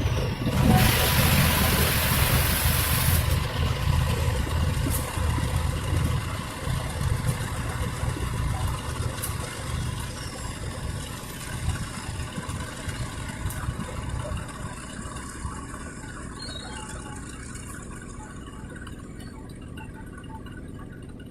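Diesel locomotive engine running with a deep rumble, with a loud hiss of air for a couple of seconds about a second in; the engine sound slowly fades as the train moves away.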